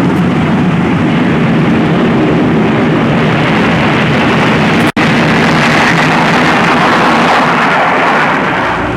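Jet airliner engines running, a loud steady rush of noise, broken by a split-second gap about five seconds in.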